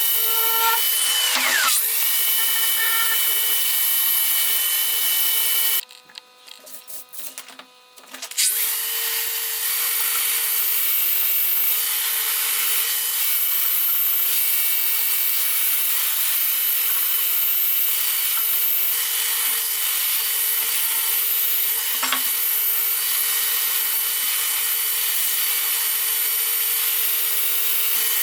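An electric power tool's motor runs steadily while working on a rusty steel axe head. Its pitch dips briefly about a second in. It stops about six seconds in and starts up again about two seconds later.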